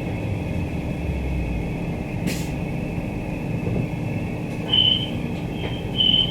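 Queensland Rail EMU electric train running, a steady rumble with a short burst of air hiss about two seconds in. Several brief high-pitched squeals come in the last second and a half.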